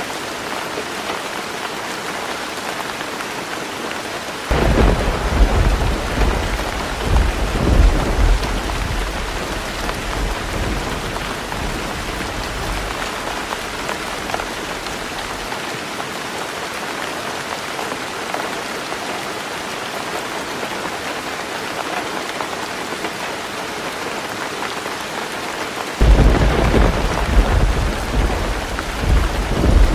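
Heavy rain falling steadily on a roof, a continuous hiss. Thunder rumbles in loudly and low twice: once about four seconds in, fading over some ten seconds, and again near the end.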